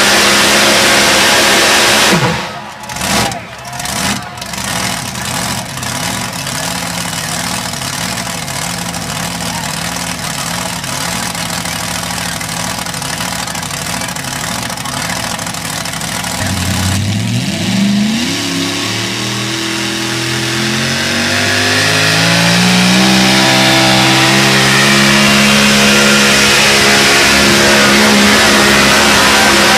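Modified four-wheel-drive pulling truck engine at full throttle, cut back sharply about two seconds in to a lower, unsteady, wavering run. From about 17 seconds the revs climb steadily and the engine then holds loud at high revs.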